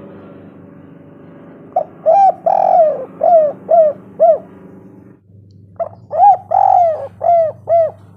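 Spotted dove cooing: two runs of loud coos, about six notes each, the second starting about two seconds after the first ends, over a low steady hum in the recording.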